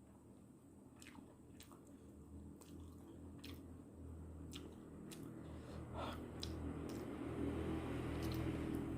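Wet chewing and eating sounds of a person eating instant noodles, with a scattering of sharp clicks and mouth noises.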